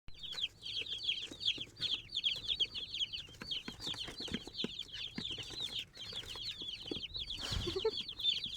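A crowd of day-old chicks and turkey poults peeping without a break, many short, high, falling cheeps overlapping. Near the end there is a brief low thump or rustle.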